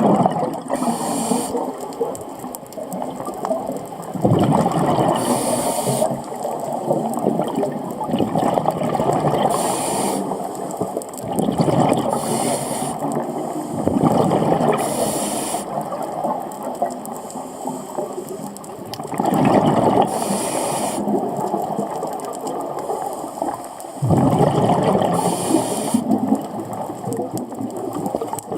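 Scuba diver breathing through a regulator underwater. Short hissing inhales alternate with loud gushes of bubbling exhaled air, in a cycle of about five seconds.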